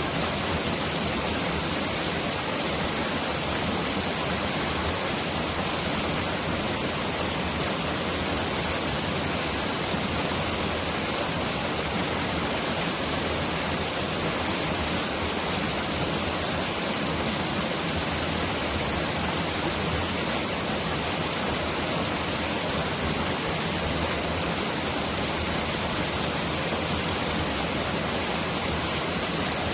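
Mountain valley stream rushing, a steady, unbroken wash of water noise that sounds much like heavy rain.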